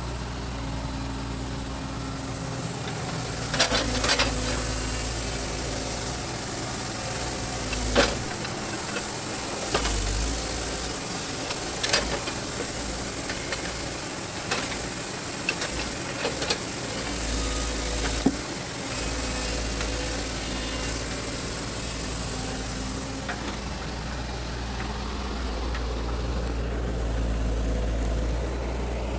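An excavator's diesel engine runs steadily under load while rubberwood logs are loaded onto a lorry, with a scattered series of sharp knocks as the logs strike one another and the lorry bed.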